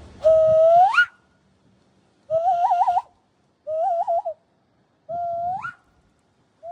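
A series of whistle-like calls with near silence between them: a held note that swoops sharply upward, two quick warbling trills, then another upward swoop, with a last one beginning at the very end.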